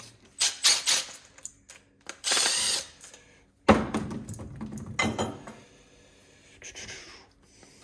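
Hand tools and metal parts of a gas water heater clicking, knocking and rattling as it is taken apart, with a short rasp about two seconds in and a sharp knock about four seconds in.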